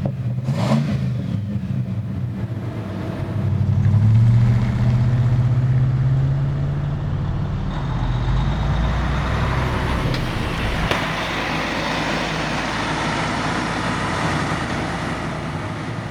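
A 1996 Ford Bronco's 5.8-litre V8 engine running, louder and rising a little in pitch about four seconds in as it accelerates. From about halfway through, road and wind noise builds up as speed rises.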